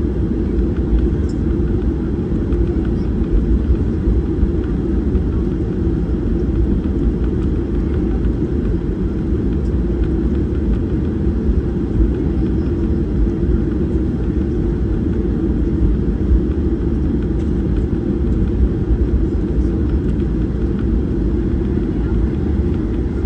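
Steady low rumble of a Boeing 737-800's CFM56 jet engines and airflow heard inside the passenger cabin, unchanging throughout.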